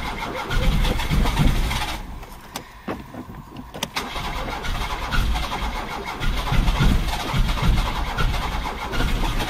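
Car engine cranking on the starter without catching, in repeated attempts with a short pause about two seconds in. The engine is failing to start, with a carburettor and fuel problem suspected of flooding it.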